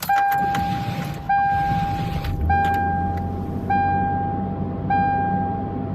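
Toyota Tacoma being cold-started: the starter cranks briefly and the engine catches about two and a half seconds in, settling into a steady idle. A dashboard warning chime rings over it, about once a second.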